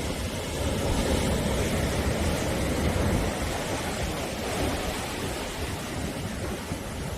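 Sea surf breaking and washing on the shore, a continuous rushing that swells a little a second or two in and eases slightly toward the end.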